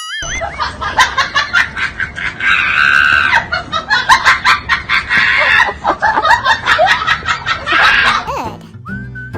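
Loud, chaotic run of squeaky, high-pitched cartoon voice sounds and sound effects, like laughing and shrieking, with rapid clicks and quick pitch glides. It thins out to a few sparse tones near the end.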